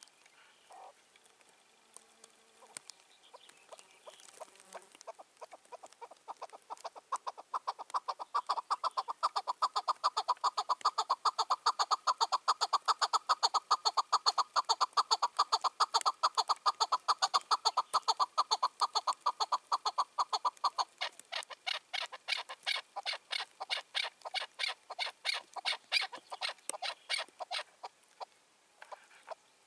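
Chukar partridge calling: a long run of rapid, repeated chuck notes that builds up over the first several seconds. About two-thirds of the way through it changes to a higher, harsher series that thins out near the end.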